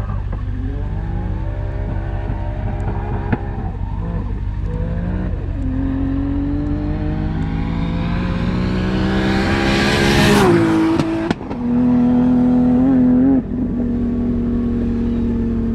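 Drift car engine revving, its pitch climbing steadily for several seconds before dropping off sharply about ten seconds in. It is then held at high revs for about two seconds and eases back to a lower steady note.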